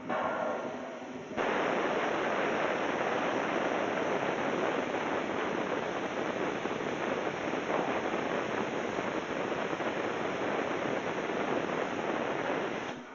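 UT CUT120 air plasma cutter cutting: a steady, loud hiss of the arc and air jet that starts abruptly about a second in and stops near the end.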